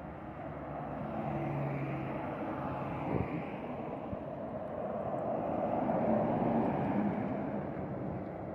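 Heavy truck's diesel engine running, slowly growing louder to a peak about six seconds in, then easing off.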